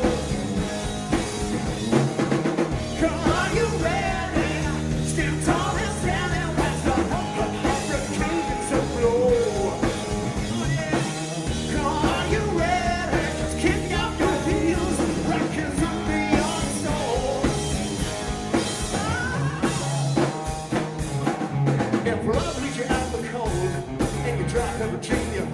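Live rock band playing a passage without lyrics: drum kit and bass keep a steady beat under a lead line that bends and slides in pitch.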